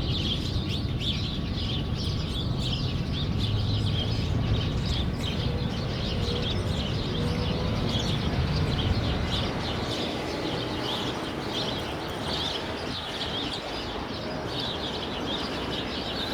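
Many sparrows chirping continuously, a dense run of short, high chirps, over a steady low background rumble.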